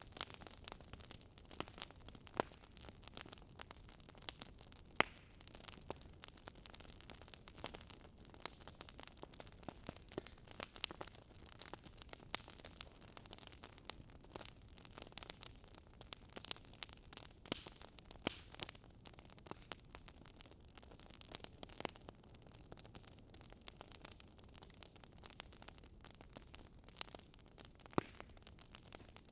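Wood fire crackling: irregular sharp pops and snaps over a soft, steady hiss.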